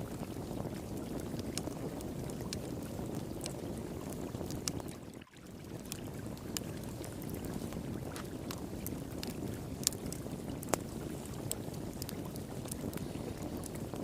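Steady rush of flowing water with the sharp pops and crackles of a wood fire scattered over it, a few louder pops near the end. The sound drops away for a moment about five seconds in.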